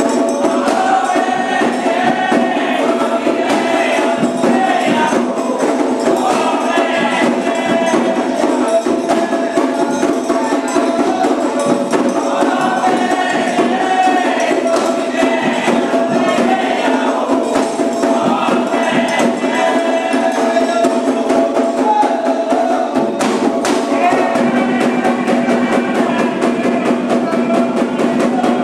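Candomblé ceremonial music: steady hand-drum and struck-bell rhythm with group singing running over it.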